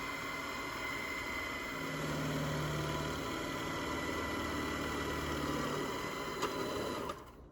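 A steady mechanical hum and whir, with a low drone for a few seconds in the middle.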